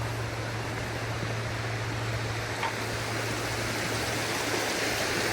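Flowing water running steadily out of a freshly unclogged culvert, an even rushing sound that grows slightly louder near the end.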